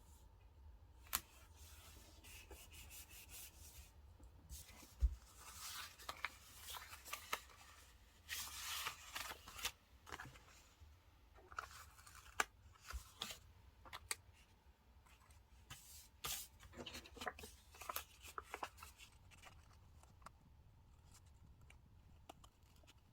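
Paper stickers being handled for a diary: scissors snipping, stickers peeling and paper rustling in short bursts with sharp clicks. It starts about five seconds in and dies away over the last few seconds.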